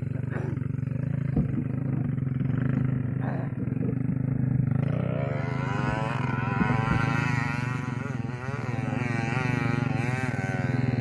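Small single-cylinder trail bike engines: one idles steadily throughout. From about halfway, another engine revs up and down again and again, typical of a rider working the throttle on a steep uphill climb.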